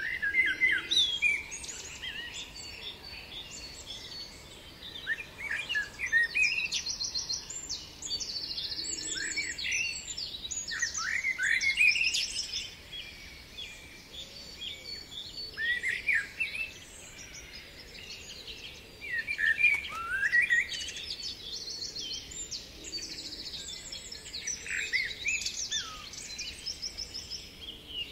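Songbirds chirping and singing, with short song phrases and fast high trills that come in bursts every few seconds.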